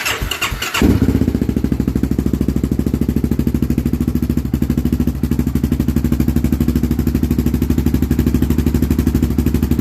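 An engine is cranked and catches within the first second, then idles steadily with a fast, even exhaust beat through a newly fitted Big Gun ECO series aftermarket exhaust.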